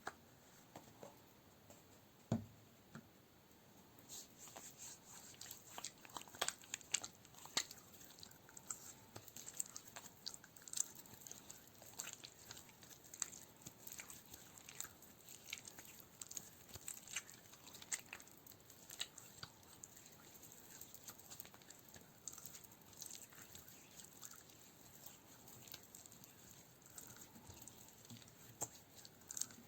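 Close-miked ASMR handling sounds, soft and quiet: a single dull thump about two seconds in, then from about four seconds a continuous run of dense, irregular crackling and sticky clicking.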